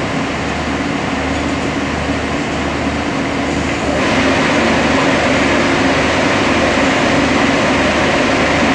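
Diesel train noise: an SRT Sprinter diesel railcar running at the platform while a train of tank wagons rolls past on the next track. A steady hum with a low throb, growing louder about four seconds in.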